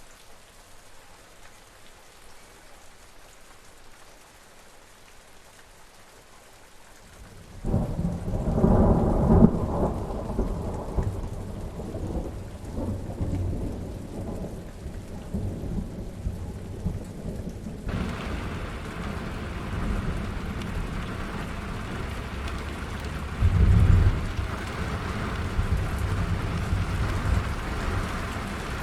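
Rain with thunder. Light rain at first, then a loud thunderclap about a quarter of the way in that rumbles on for several seconds. From about halfway the rain hiss gets heavier and brighter, with a second short thunder rumble near the end.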